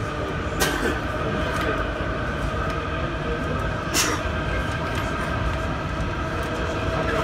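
A passenger train running along the line, heard from inside the carriage: a steady rumble of wheels on rail with a constant whine, and two sharp clacks, about half a second in and again about four seconds in.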